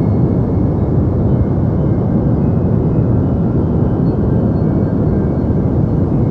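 Deep white noise for sleep: a steady, unchanging rush weighted toward the low end, with little in the upper range.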